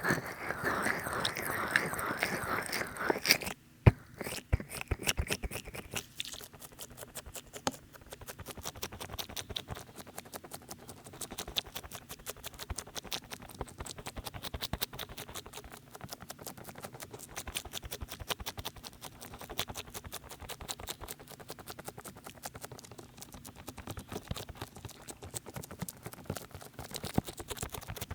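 Oil-slicked hands working over a binaural microphone in close-up, making wet, squelching, crackling sounds; heavily over-oiled, so it goes sloppy and sticky. A dense, louder rubbing for the first few seconds ends in a sharp snap, then runs on as a quieter stream of quick wet clicks.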